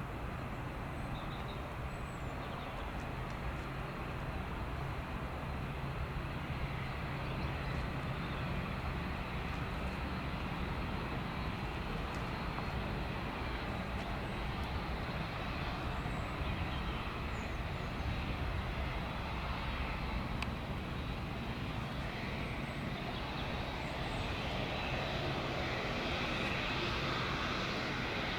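Boeing 787 Dreamliner jet airliner's engines heard as a steady rumbling roar that slowly builds toward the end.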